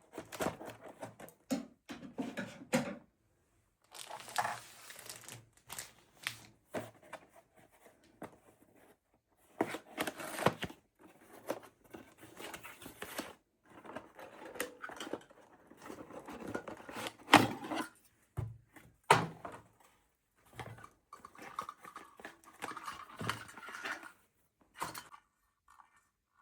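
Handling noises at close range: irregular rustling and crinkling with light knocks and taps, the sharpest knocks about two-thirds of the way through.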